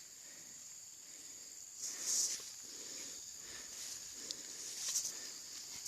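Steady high-pitched chirring of insects, with a short noisy swell about two seconds in and another near five seconds.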